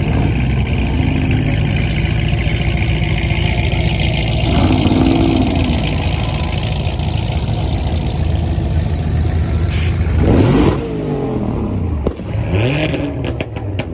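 A car engine with a loud exhaust being revved hard, its pitch rising and falling several times over a loud rush that drops away about eleven seconds in, followed by two quick blips of the throttle.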